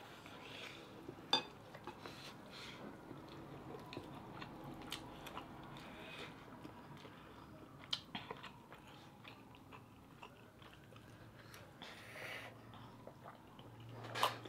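Close-miked chewing and mouth sounds of people eating lechon paksiw (stewed roast pork) with rice, with a few short sharp clicks, the loudest about a second in, about eight seconds in and near the end.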